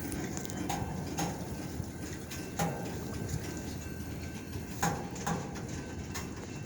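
Freight train moving slowly through a rail yard: a steady low rumble with sharp metallic clanks at uneven intervals, each ringing briefly.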